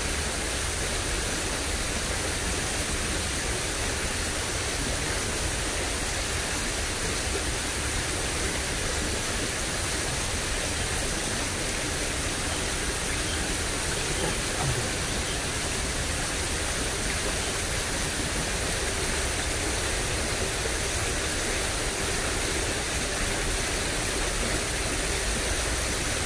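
Steady rushing of running water in a drainage ditch swollen by recent flooding, an even noise with no breaks.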